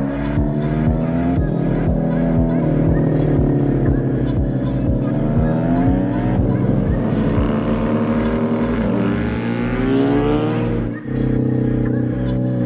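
BMW R100 café racer's air-cooled boxer twin engine on the move, its pitch rising and falling repeatedly as it is revved through the gears, with a sudden brief drop about eleven seconds in.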